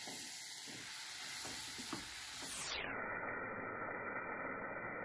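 Chopped onions, tomatoes and ground spices sizzling in hot oil in a frying pan, with a wooden spatula scraping and stirring through them in the first couple of seconds. About three seconds in the sizzle turns duller and carries on steadily.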